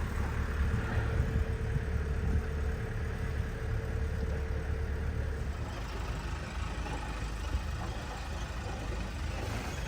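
Sailing yacht's inboard diesel engine running slowly with a steady low rumble, with a faint steady tone that stops about halfway through.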